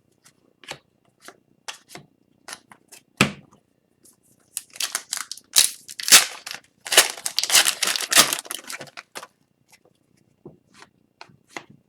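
A hockey card pack's wrapper being torn open and crinkled, a dense crackling stretch in the middle. Before and after it come light scattered clicks of cards being handled.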